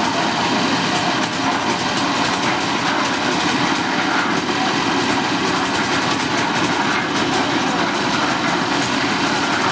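One-bag concrete mixer running steadily, its motor and turning drum giving a continuous mechanical noise with a rapid rattle of clicks.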